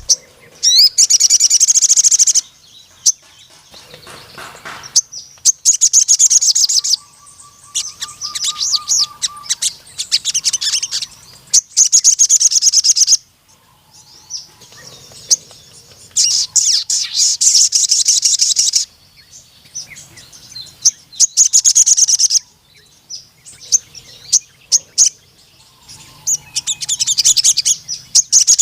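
Sogon sunbird singing: repeated bursts of rapid, high-pitched trilling, each lasting a second or two, with short gaps between them.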